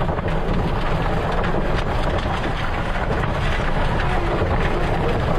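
Loud, steady rush of tornado wind around and into a vehicle, with wind buffeting the microphone.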